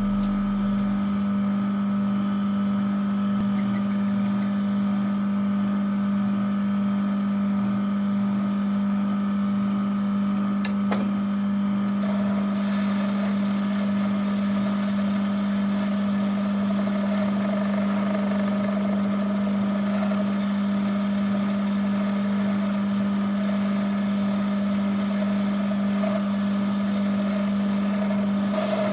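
Homemade mini metal lathe running with its motor at steady speed, a constant low hum. A click comes about eleven seconds in, and a higher, steady note joins the hum about a second later.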